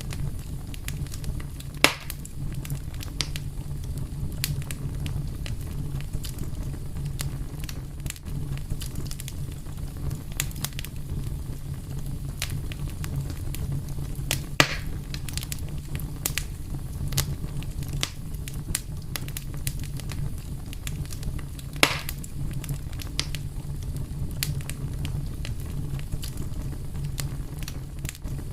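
Fire crackling and popping over a steady low rumble, with many small sharp crackles and three louder pops spread through.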